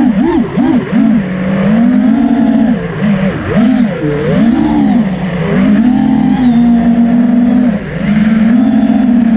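5-inch FPV quadcopter's motors and propellers buzzing loudly, the pitch swooping up and down in quick dips with throttle changes, then holding steadier for the last few seconds.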